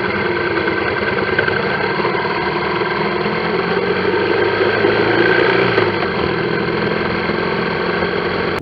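Motorcycle engine running under way in traffic, with road and wind noise. It grows a little louder around the middle.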